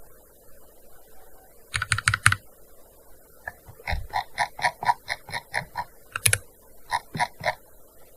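Typing on a gaming keyboard: key clicks in short bursts, a quick run of four, then a longer steady run of about a dozen keystrokes, then a few more near the end, with brief pauses between.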